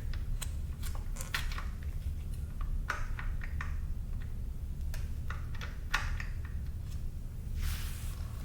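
Light clicks and clinks of hand tools and small metal parts being handled, at irregular intervals, with a brief scrape near the end over a steady low hum.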